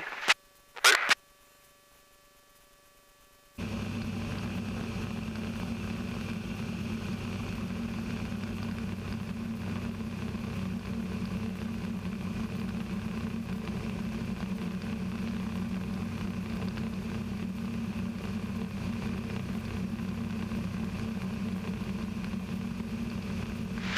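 Steady, unchanging drone of a light aircraft's Rotax 582 two-stroke engine and propeller in cruise, heard from inside the cockpit; it comes in about three and a half seconds in, after two short radio clicks and a near-silent gap.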